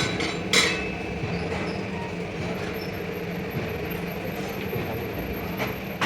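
Two sharp metal strikes in the first second, then a steady low mechanical hum.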